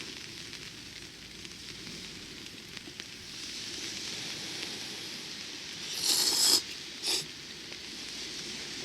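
Someone slurping noodles, twice: a longer slurp about six seconds in and a short one just after seven seconds, over a steady crackling, sizzling hiss.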